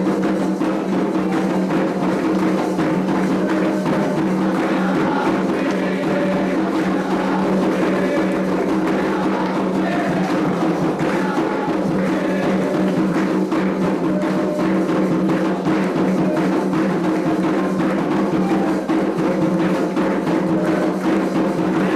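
Candomblé atabaque hand drums and percussion playing a continuous, dense ritual rhythm, with a steady low hum beneath it.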